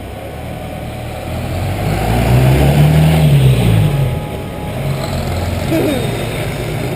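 A motor vehicle driving past. Its engine note rises and then falls, loudest about three seconds in.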